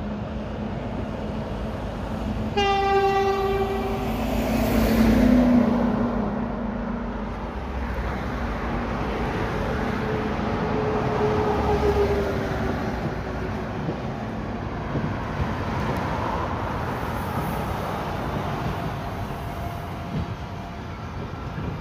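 ÖBB class 2016 diesel-electric locomotive sounding one short horn blast about two and a half seconds in, then running past at the head of a long freight train of timber wagons, the engine and wagons rumbling by.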